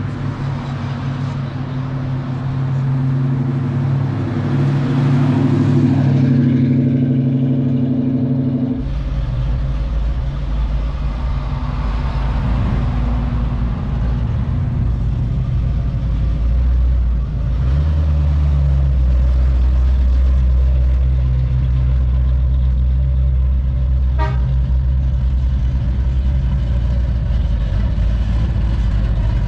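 Classic car engines running close by: a steady low rumble of idling engines, with a deeper, louder engine taking over about nine seconds in.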